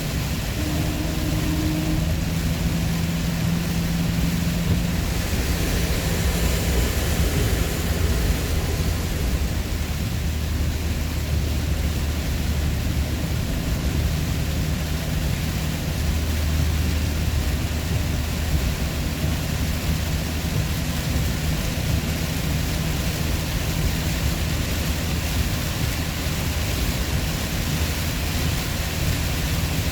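Steady road and engine noise inside a vehicle's cabin at expressway speed: a low engine hum under a hiss of tyre and wind noise.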